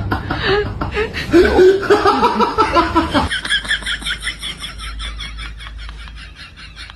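Laughter with a pitch that bends up and down, cut off abruptly about three seconds in, then quieter, rapid rhythmic snickering, about four or five pulses a second.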